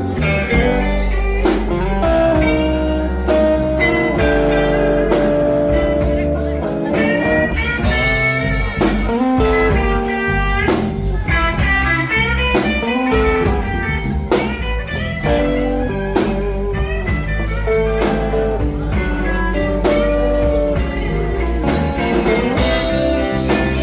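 Blues band playing, with a guitar picking out held melodic notes over bass and a steady drum beat.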